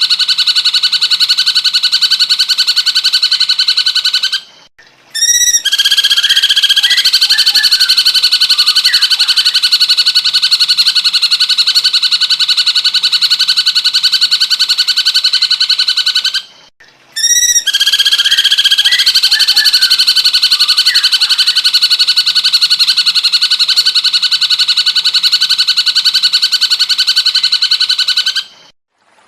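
Cucak cungkok singing a fast, buzzing trill held on one pitch, in long unbroken phrases. It stops briefly twice, and each new phrase opens with a few quick curved notes.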